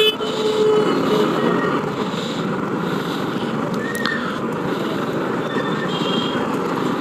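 Busy city street traffic heard from a moving motorbike: steady road and engine noise, with a vehicle horn sounding for about the first second and brief faint honks later on.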